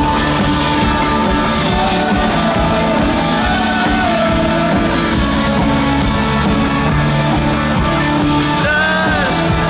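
Loud live rock music: a band with guitar and a singing voice.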